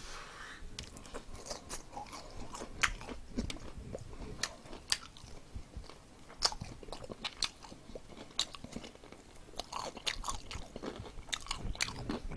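A person chewing crispy fried chicken, with irregular sharp crunches of the batter between quieter chewing.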